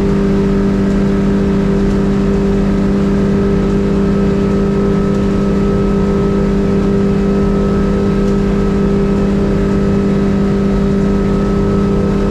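Mercury 115 outboard motor running steadily at a constant speed under way, a steady engine pitch over a low rush of wind and water.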